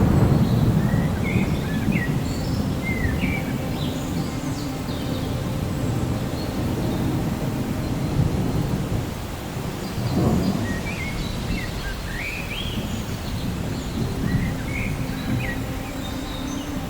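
Steady rain with thunder: a rumble fading away in the first second or so, and another rolling swell about ten seconds in. Birds chirp over it in short bursts, early on and again through the second half.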